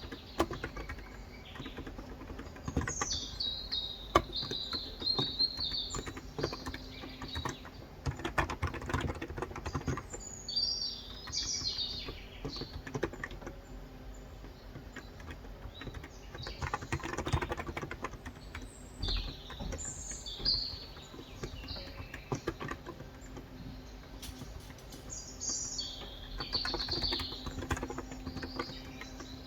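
Typing on a Cox Endeavor electro-capacitive (non-contact) tenkeyless keyboard with 35 g switches, in uneven runs of keystrokes with pauses between them. Birds chirp in short bursts several times.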